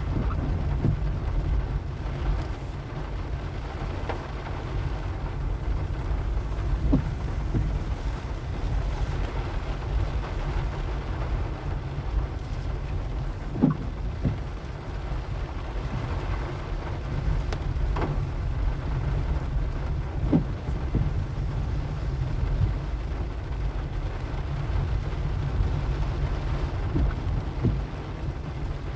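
A car driving over wet, sandy streets: a steady low rumble of engine and tyres, with a few sharp knocks, the clearest about 14 and 18 seconds in.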